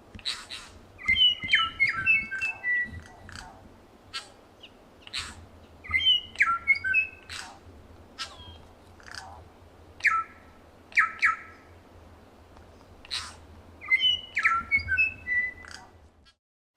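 Several New Zealand bellbirds (korimako) singing together: clear, bell-like phrases of a few notes that come back about every four seconds, mixed with many short, sharp calls.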